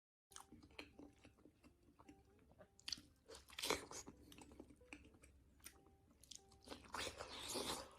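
Close-miked chewing and biting of crunchy pork, with many small crackling clicks between bites. One loud crunch comes about halfway through, and a longer run of loud crunching comes near the end.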